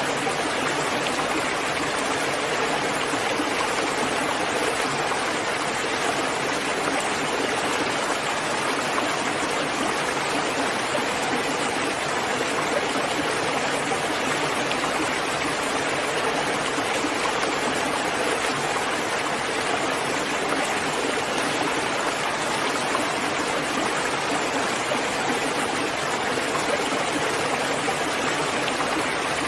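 Steady, even rainfall with no distinct drops or thunder standing out.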